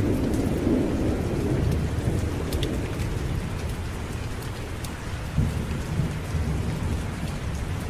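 Steady rain with rolling thunder: a low rumble dies away over the first couple of seconds, and another low rumble starts about five seconds in, over a constant rain hiss with scattered small ticks.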